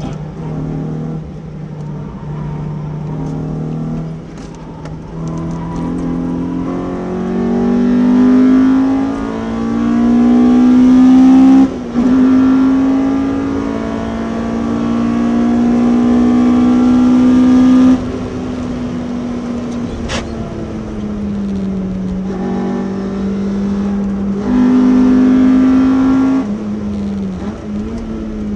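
Honda Civic EJ9's B18C 1.8-litre DOHC VTEC four-cylinder engine, heard from inside the cabin, accelerating hard. Its pitch climbs to a quick gear change about twelve seconds in, then pulls long in the next gear before a sudden lift off the throttle about eighteen seconds in. There is another short burst of throttle near the end.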